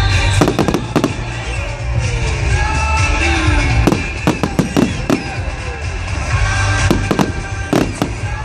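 Firework shells bursting in quick clusters of sharp bangs, about half a second in, again around four to five seconds in, and around seven to eight seconds in, over continuous music with a heavy bass.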